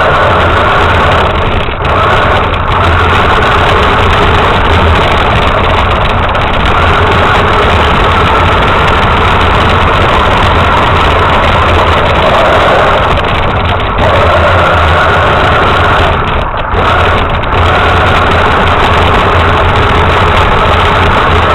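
Radio-controlled truck's motor running steadily, with a few brief dips in level.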